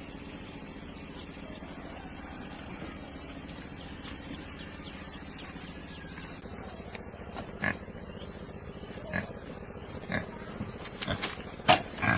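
Pigs grunting: after a quiet stretch of steady background noise, a few short grunts come about halfway through, then more often near the end.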